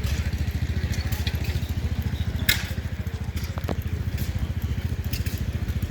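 A small engine running steadily with an even, rapid pulsing beat, with a sharp click about two and a half seconds in.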